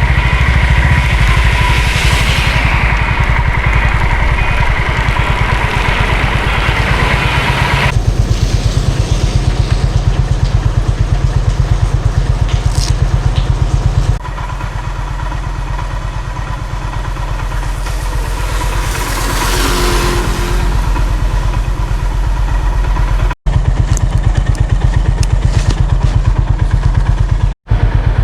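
Honda CB350 motorcycle engine running under way, a fast, even exhaust pulse. It gets somewhat quieter about halfway through and cuts out briefly twice near the end.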